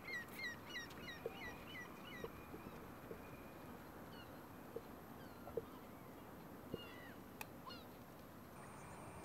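Birds chirping outdoors: a quick run of short falling chirps in the first two seconds, then scattered single calls, over a soft steady hiss of open air, with a few faint knocks.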